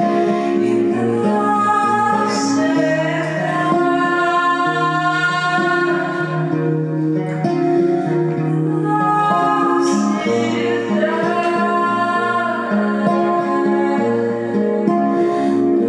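Live acoustic music: a woman singing a slow song in long held notes over acoustic guitar.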